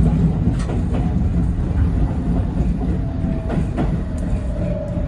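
Yoro Railway 7700-series electric train running, heard from the driver's cab: a steady low rumble with wheels clicking over rail joints several times. From about three seconds in, a faint whine sounds and falls slightly in pitch.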